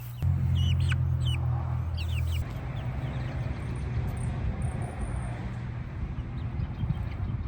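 Black chickens calling with short, high chirps, several in the first two seconds and a few more near the end, over a steady low hum.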